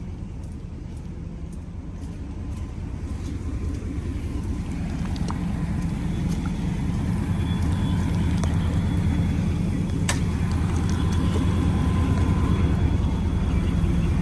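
Pickup truck engine running steadily, a low hum that grows gradually louder. A single sharp click sounds about ten seconds in.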